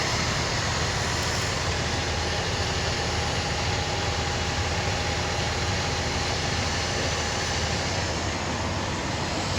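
Semi-truck diesel engine idling steadily, a low, even rumble.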